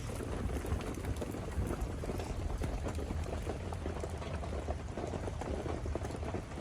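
Steady rain pattering on a bell tent's roof, a dense stream of fine drop taps.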